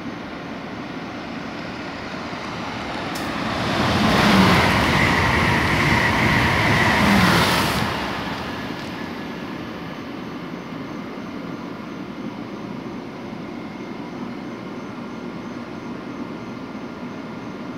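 Steady hum of a stopped Amtrak electric train at the platform. A loud rushing train noise builds about two seconds in, holds for about four seconds with a steady high whine, and fades back to the hum about eight seconds in.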